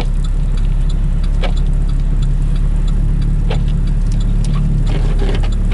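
Car cabin with a steady low drone of engine and road noise at slow speed in snow, and the windshield wipers running: a sharp knock from the wipers about every two seconds.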